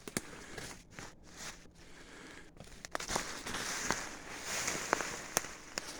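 Footsteps and rustling brush as a person scrambles down a dirt slope through undergrowth, with scattered snaps and clicks. It gets busier about halfway through.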